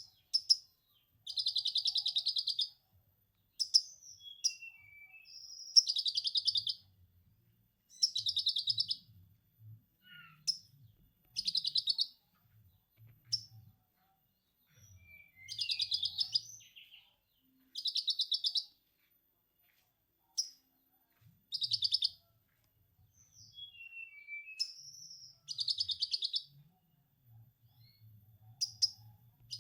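Konin bird singing: about a dozen bursts of rapid, buzzy chatter, each lasting about a second, copying the 'ngekek' chatter of a lovebird. Short gliding whistle notes fall between the bursts.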